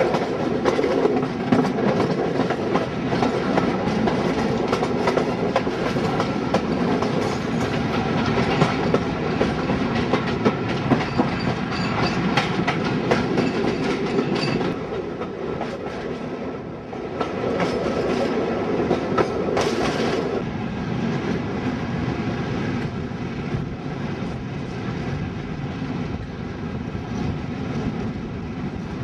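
Railway coach running at speed, heard from an open window, with the wheels clicking over the track and pointwork. The sound eases and grows quieter in the last third.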